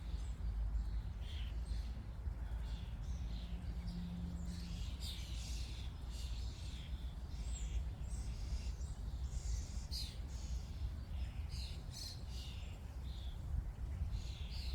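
Several birds chirping, with many short calls overlapping throughout, over a steady low rumble.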